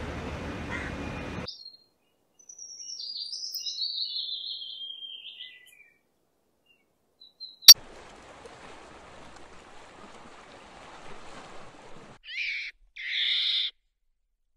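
Bird vocalisations from separately edited recordings. First comes a high, warbling phrase that falls in pitch over about three seconds. After a sharp click and a few seconds of faint hiss, two short high calls follow near the end.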